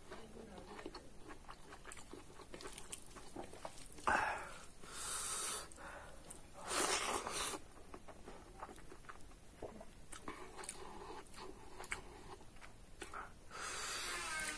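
A man chewing a mouthful of rice and spicy pork curry close to the microphone: many soft wet mouth clicks and smacks, with a few louder breathy bursts, the longest near the end.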